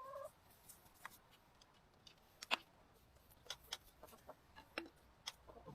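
Faint, scattered clicks and taps of hand tools on the outboard's lower unit, a few separate ticks a second apart, as the gearcase drain plug is undone to let the oil out.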